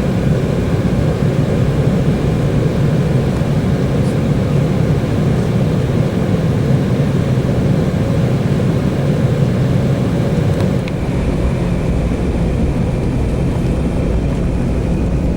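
Airliner cabin noise on the ground before takeoff: the engines' steady low hum with a rush of air. The sound shifts and drops a little about eleven seconds in.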